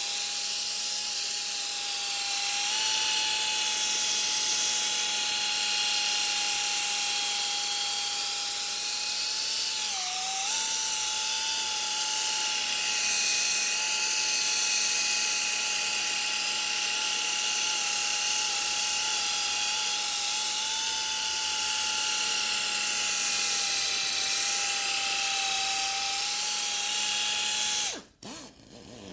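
A handheld electric power tool runs steadily with a high whine. Its pitch dips briefly about ten seconds in, and it cuts off abruptly near the end.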